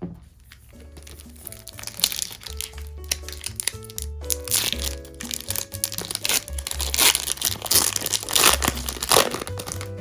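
Crinkling wrapper of a Pokémon card booster pack being handled and torn open, a dense run of crackling and tearing over soft background music.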